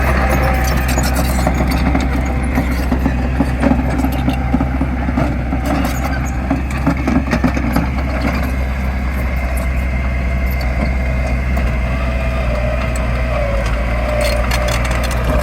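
Heavy diesel construction machinery running steadily under load, a deep engine rumble with scattered clanks and rattles.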